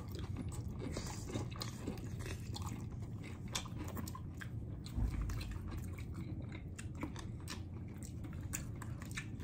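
Close-up chewing and biting into a fried chicken drumstick, with many small crunches of the breading. A low thump about five seconds in.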